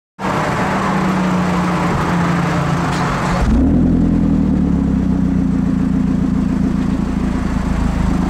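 2009 Mazdaspeed 3's turbocharged 2.3-litre four-cylinder running steadily through a Magnaflow aftermarket exhaust. A hissy upper layer drops away after about three and a half seconds, leaving a steady, deep exhaust drone.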